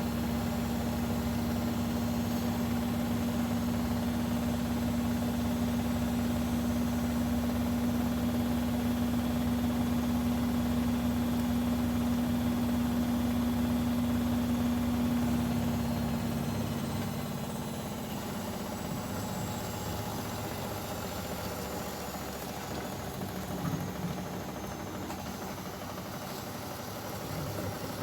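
Bosch Maxx WFL 248Y washing machine running with a steady motor hum that dies away a little past halfway, leaving a quieter machine sound with a few light knocks near the end.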